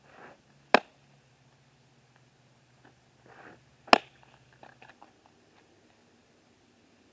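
Two pitched softballs smacking into a catcher's mitt with a sharp pop, about three seconds apart. Each pop comes just after a short, soft sound of the pitch being thrown. A few light ticks follow the second catch, and a faint hum sounds underneath.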